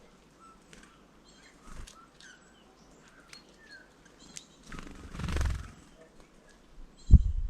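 Small songbirds at a feeder giving many short, high chirps. There is a brief rushing noise just past the middle and a run of loud, low thumps near the end.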